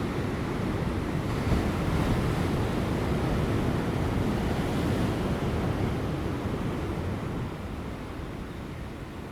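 Large ocean waves breaking and washing over offshore rocks, a continuous rushing surf that swells over the first few seconds and then slowly eases off.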